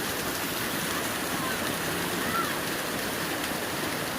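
Water of a waterfall rushing steadily, with a few faint, short high chirps over it.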